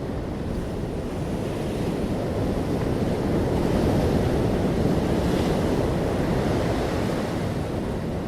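Sea waves breaking gently on a shore, one wash of surf swelling to a peak about halfway through and then easing back.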